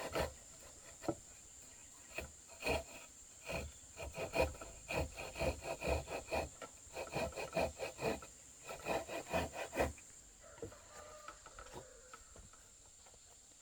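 Wood being worked by hand with a tool in repeated short rasping strokes, about two or three a second, which stop about ten seconds in.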